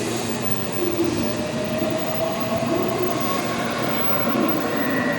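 Subway train running, heard inside the car: a steady rumble and rush of running noise with a faint, steady motor whine, and a higher whine coming in near the end.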